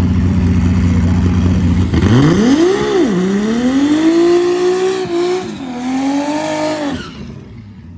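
Drag race car rumbling steadily on the starting line, then launching: the engine pitch climbs, drops at a gear change, climbs again through a second shift, and the sound fades away as the car runs down the track near the end.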